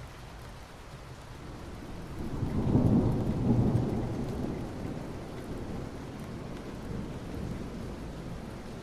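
Steady soft rain falling on asphalt, with a low rumble of distant thunder that swells about two seconds in, peaks around the third to fourth second, and slowly dies away.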